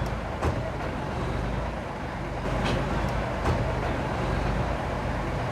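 Heavy diesel earthmoving machinery running steadily under load, with a couple of sharp metallic knocks, about half a second in and again near the middle.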